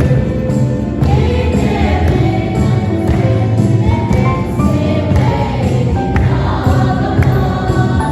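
Choral music: a choir singing over instrumental backing with a steady beat.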